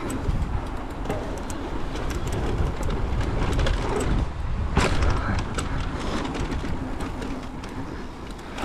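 Mountain bike riding fast down a dirt trail: wind buffeting the on-board microphone, tyres on dirt, and the bike's frame and chain rattling, with a sharper knock about five seconds in.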